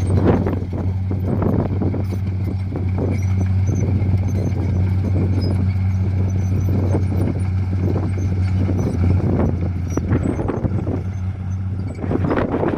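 Dump truck's diesel engine running with a steady low drone, with irregular knocks and rattles over it.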